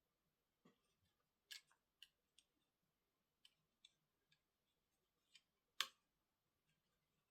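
Light, scattered clicks and taps, about ten at irregular intervals, with one sharper click about six seconds in: small tools and parts being handled while working on a laptop.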